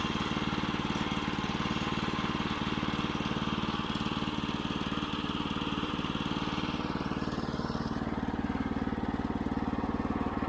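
9.5 hp gasoline engine of a Woodland Mills HM122 portable band sawmill running steadily between cuts. A hiss higher up fades out about seven seconds in.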